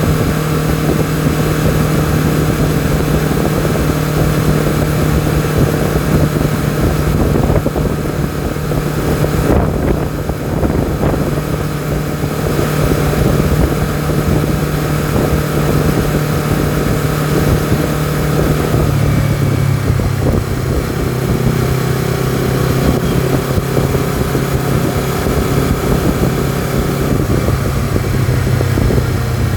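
Honda CBR250RR motorcycle engine and exhaust running steadily under way; its pitch steps down a little past halfway and shifts again near the end.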